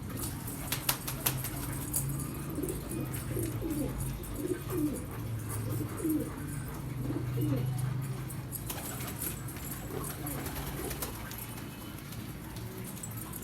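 Domestic pigeons cooing, a run of low coos rising and falling in pitch, with a few sharp clicks about a second in.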